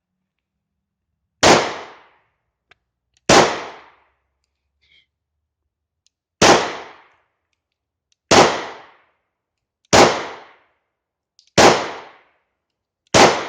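Seven 9mm pistol shots from a German P.08 Luger fired one at a time, about one and a half to three seconds apart, each with a short echoing tail. The seventh shot empties the magazine and the toggle locks back open.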